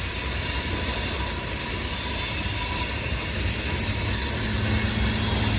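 CSX freight train cars rolling by under heavy braking: a steady rumble of wheels on rail with thin, high brake and wheel squeal over it. A low hum comes up near the end.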